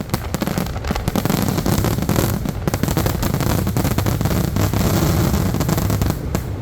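Aerial fireworks going off in a dense, rapid barrage: crackling reports and bangs overlapping one another without a break, over a heavy low rumble.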